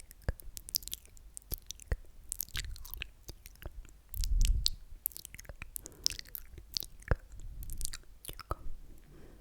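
Close-miked ASMR mouth sounds: a run of irregular wet, sticky clicks and smacks of lips and tongue, with one louder, low muffled burst about halfway through.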